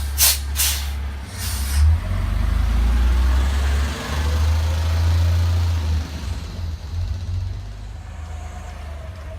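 CNG garbage truck: three short hisses of released air in the first two seconds, then the engine runs louder under load for about four seconds before easing back.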